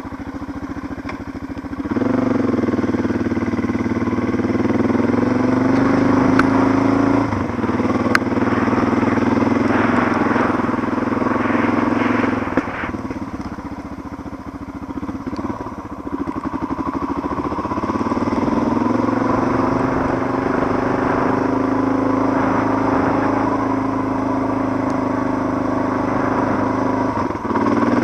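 Suzuki DR650's single-cylinder four-stroke engine pulling away from idle about two seconds in and running under load, its pitch stepping with the throttle and gears. It eases off for a few seconds around the middle, then picks up again.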